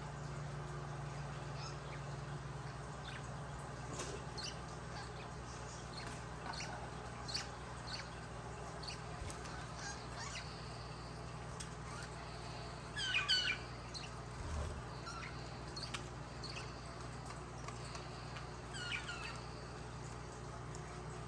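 Budgerigars chirping: scattered short high chirps, with a louder burst of warbling calls about thirteen seconds in and another near nineteen seconds, over a steady low hum.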